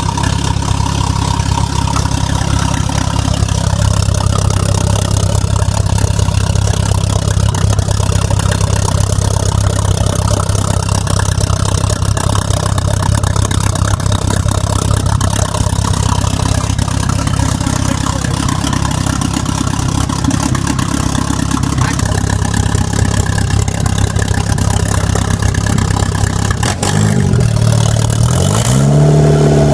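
Turbocharged VW 2.0 ABA inline-four engine idling steadily on its first start, then revved up and back down a couple of times near the end.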